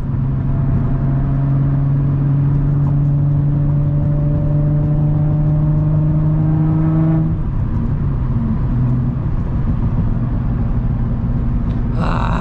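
Infiniti G35's 3.5-litre V6 with the muffler and resonator deleted, pulling with a deep drone that climbs slowly in pitch under light acceleration. About seven seconds in the pitch drops and the exhaust settles to a lower steady drone.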